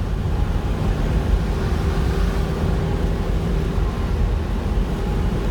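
Vehicle cab noise while driving through a storm: a steady low rumble of engine and road with a noisy wash of wind and rain over it, and a faint steady hum.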